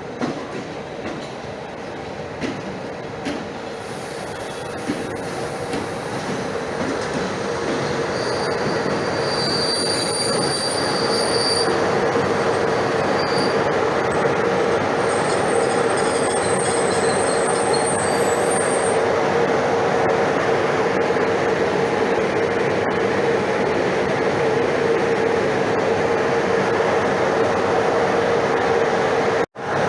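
Passenger train passing close by: its rumble builds over the first dozen seconds, then runs steady and loud under a constant hum. High wheel squeals come twice, in two short spells partway through. The sound drops out for an instant just before the end.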